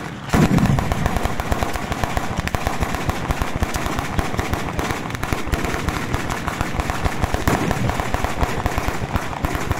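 Bolognese-style ground firework battery going off: a rapid, continuous string of firecracker bangs, many each second, with a heavier boom about half a second in.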